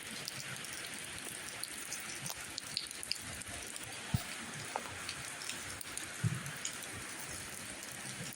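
Steady rain falling as an even hiss, dotted with many small sharp drop ticks, with two brief soft low thuds about four and six seconds in.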